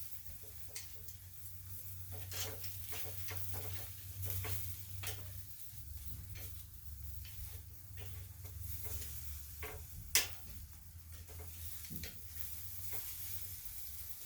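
Quail grilling over a charcoal fire, sizzling and crackling with scattered small pops and one sharp pop about ten seconds in, over a low steady rumble.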